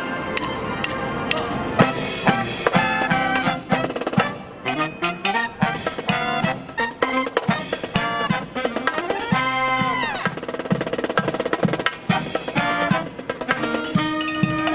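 A marching brass band playing a pirate medley: trumpets and trombones carry the melody over a steady, evenly repeating marching-drum beat.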